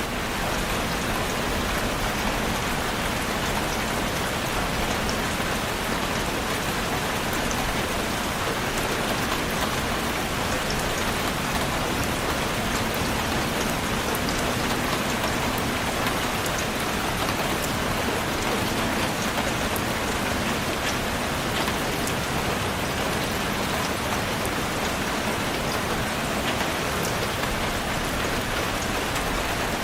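Steady rain falling on a surface, an even hiss with scattered fine drop ticks, unchanging throughout.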